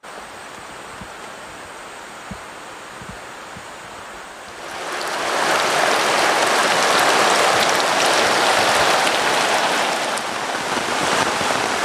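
Heavy rain falling in a steady wash of noise that grows much louder about five seconds in.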